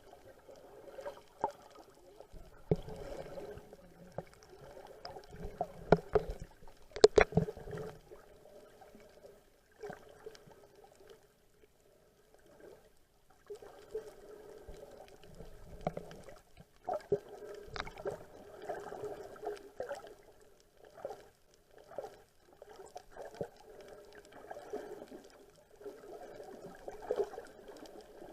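Water sloshing and trickling around a small boat, coming and going irregularly, with a few sharp knocks about six to seven seconds in.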